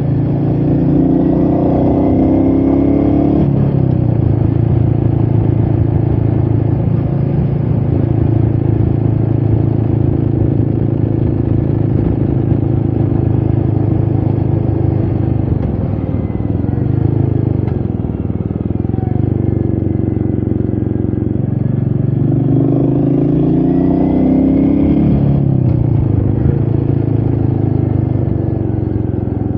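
Royal Enfield Meteor 350's single-cylinder engine under way, heard from the rider's seat with wind rushing past. The engine note climbs and then drops sharply twice, about three seconds in and again near the end, as the bike shifts up a gear. In between it runs steadily.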